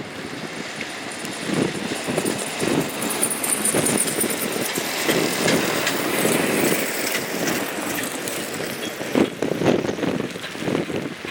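Road traffic in a snowstorm: vehicles running and passing, with uneven surges of engine and road noise.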